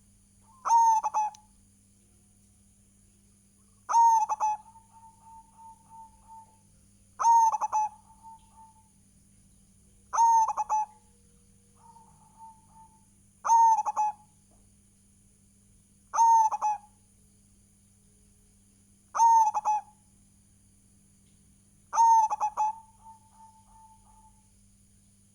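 Zebra dove (perkutut) cooing song, repeated eight times about every three seconds. Each phrase is a short, strong burst, and several trail off into a string of softer notes. A steady faint low hum and high whine run underneath.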